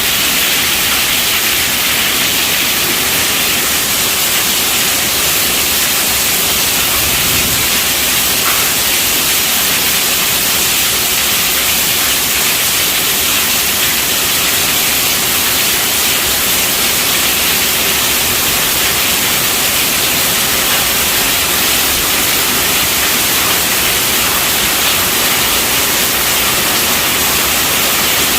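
Steady rainfall: a constant, even hiss with no single drops or gusts standing out.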